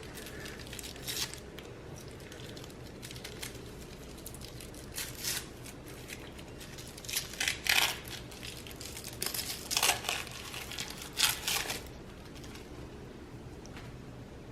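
Crinkling and rustling of wrapping as fireworks are handled and bundled together, in irregular bursts that grow busier about halfway through.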